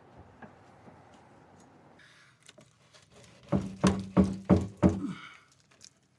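Five quick, sharp metallic knocks, each with a short ring, starting about three and a half seconds in: metal being struck while the rusted fuel-tank fittings of a 2009 Ford Escape are worked loose.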